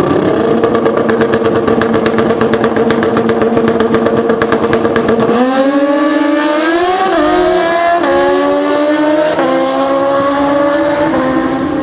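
Pro Street drag-racing motorcycle engines held at steady high revs with a rapid crackle, then launching about five seconds in and revving up through the gears, the pitch rising and dropping sharply at each of about four upshifts.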